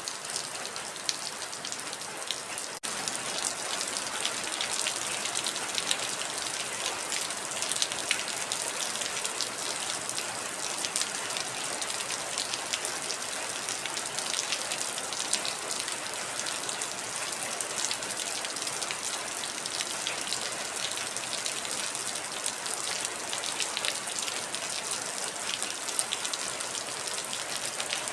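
Heavy rain falling steadily: a dense hiss with many sharp individual drops pattering through it. A momentary break about three seconds in, after which it is slightly louder.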